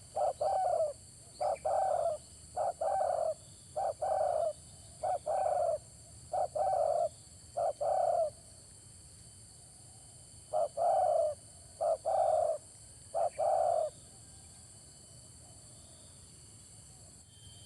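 Spotted dove (tekukur) cooing in repeated short phrases, each a quick note followed by a longer one. The phrases run until about two-thirds of the way through, with a brief pause in the middle, and then stop.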